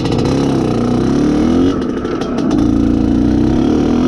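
IZh Planeta Sport's two-stroke single-cylinder engine pulling under throttle on the move. Its note rises over the first second and a half, drops back, then climbs and holds high. The ignition timing has been set later, giving a soft, tractable pull.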